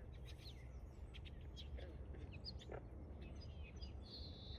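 Faint outdoor birdsong: scattered short chirps and calls from several birds, with a brief buzzy trill near the end, over a low steady background rumble.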